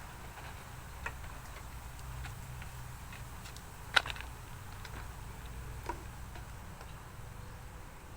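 Scattered light clicks and ticks, with one sharper knock about four seconds in, over a steady low hum.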